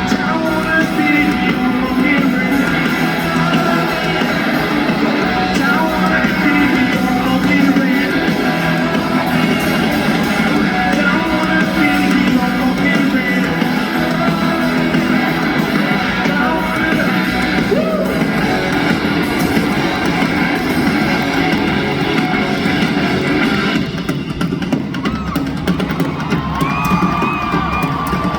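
Live rock band playing loudly, with electric guitars, drums and yelled vocals, recorded from the audience. About 24 s in the full band sound thins out, leaving held guitar notes.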